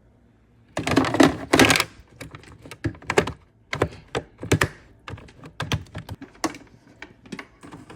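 Plastic media trays of an HW-304B canister filter being handled and set into the canister: a short burst of plastic clatter about a second in, then a string of light clicks and knocks.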